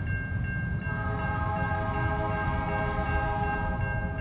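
Freight train rumbling slowly past a level crossing, with the crossing bell ringing steadily. About a second in, a locomotive horn chord sounds and is held for about three seconds before stopping near the end.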